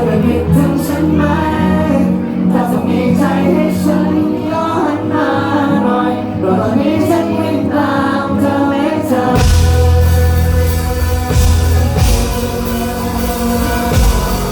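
Live band music: several voices singing a melody over sustained instruments, then about nine seconds in the drum kit, cymbals and bass crash in and the full band plays loudly.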